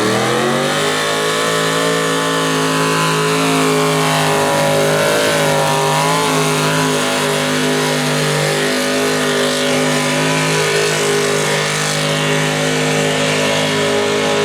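Pulling tractor's 498 cubic-inch Ford big-block V8 revving up hard in the first second, then held at full throttle, a loud steady high-pitched run while pulling the sled.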